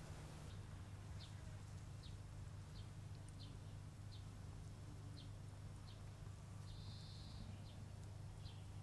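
Faint bird chirps: short, high, falling notes repeated roughly every three-quarters of a second over a steady low hum.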